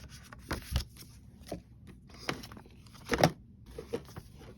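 Unboxing handling: a cardboard box and its paper inserts being handled, with about half a dozen light knocks and rustles, the loudest a little past three seconds in.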